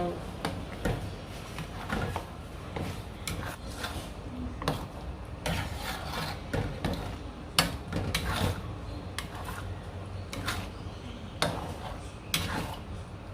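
A spatula scraping and stirring a thick chilli-paste mixture in a pan, in irregular strokes.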